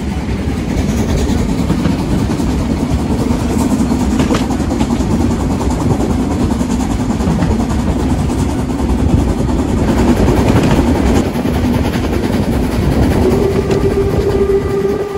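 Harz narrow-gauge steam train running, a steady heavy rumble with rail clatter. Near the end a steady held tone sets in over it.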